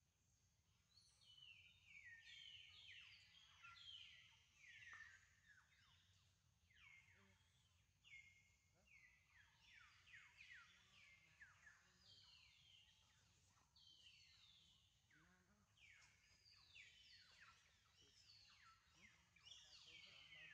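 Faint birds chirping: many quick, downward-sliding notes, overlapping and repeating.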